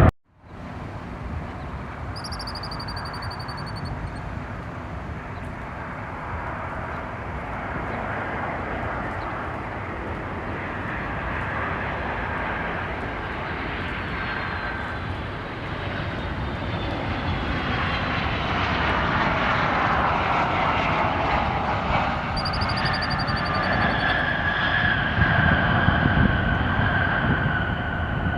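Airliner engines running as the plane moves near the airport: a steady rush with high whining tones that slide down in pitch, growing louder toward the end.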